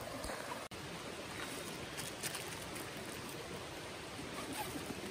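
Flowing stream: a steady rush of running water, with a brief dropout a little under a second in.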